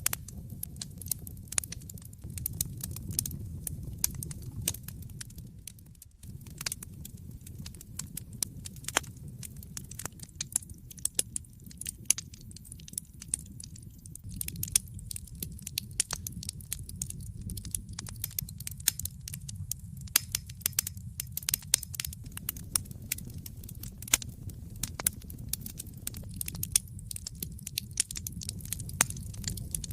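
Wood fire in a fireplace crackling, with frequent irregular sharp pops and snaps over a steady low rumble of the flames. The rumble drops out briefly about six seconds in.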